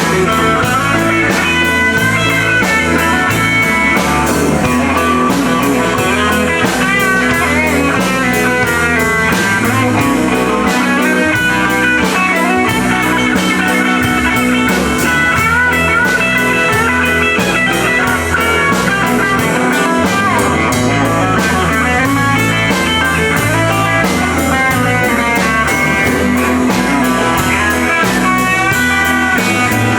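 Live country-rock band playing an instrumental passage: a guitar lead line over a walking bass and a steady drum-kit beat, with no singing.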